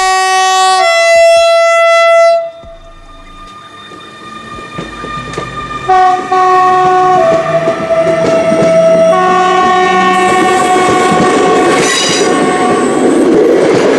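Two-tone horn of a Newag Griffin electric locomotive: three long blasts, the first two each stepping from a higher to a lower note, with a quieter gap after the first. Near the end the noise of the train running on the rails rises.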